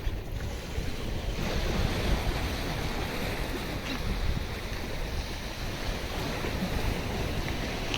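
Wind buffeting the microphone in an uneven low rumble over the hiss of surf and water, which gets fuller about a second and a half in.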